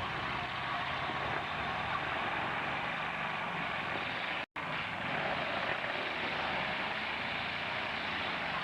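Steady mixed noise of demolition-derby truck engines running. The audio cuts out for an instant about halfway through.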